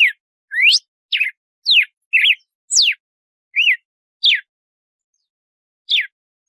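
Red-cowled cardinal (galo-de-campina) singing its 'açoite' song: a quick series of clear whistled notes, about two a second, some sweeping down, some rising, some looping up and back down, then a pause of over a second before one last downswept note near the end.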